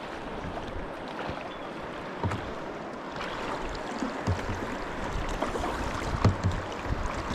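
Fast-flowing river water rushing steadily, with a few short thumps from kayak paddles and hulls in the water.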